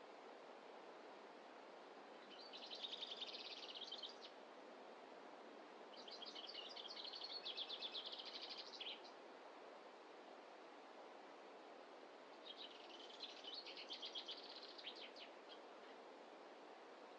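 A songbird sings three rapid, trilled phrases, each two to three seconds long, spaced a few seconds apart. Under them runs a faint, steady rush of background noise.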